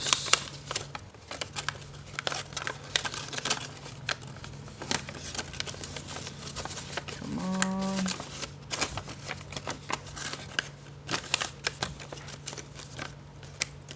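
Paper being folded and creased by hand into an origami crane: irregular crinkles, rustles and crisp creasing clicks over a steady low hum. A voice hums one short note about halfway through.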